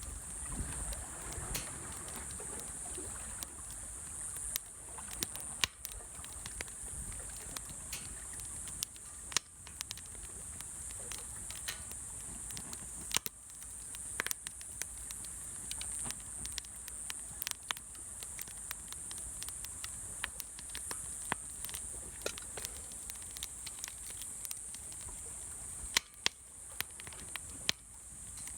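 Wood fire crackling in a fire pit, with sharp, irregular pops every second or so over a steady high hiss.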